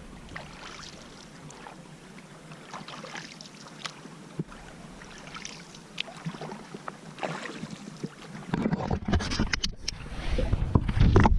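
Canoe paddling: the paddle dipping and water splashing and dripping in short, irregular sounds. Wind rumbles on the microphone for the last few seconds.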